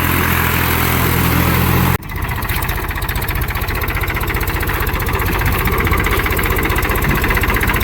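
Tractor diesel engine running: a steady low hum for about two seconds, then after an abrupt break a rapid, even pulsing engine beat.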